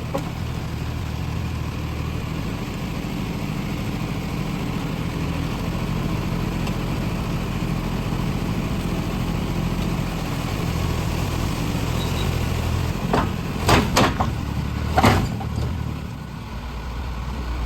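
Heavy diesel engine idling steadily, with a few sharp knocks about three-quarters of the way through.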